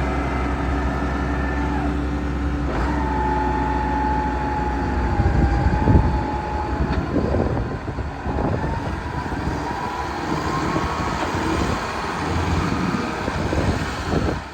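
Case IH MX220 tractor's six-cylinder diesel engine running, with a thin steady whine over the engine note. The engine note changes about six seconds in.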